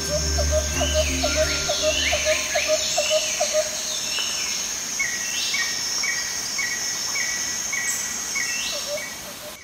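Birds calling over a steady high insect trill: many rising and falling whistles, and from about five seconds in a short note repeated about twice a second. A low drone fades out within the first three seconds.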